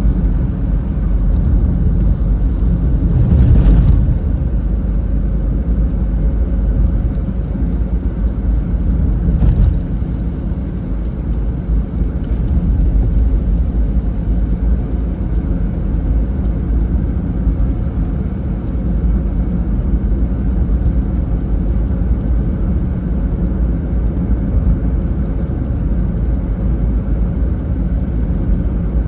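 Car driving on a rain-wet road: a steady low rumble of road and engine noise, with a louder swell about three seconds in and a brief one near ten seconds.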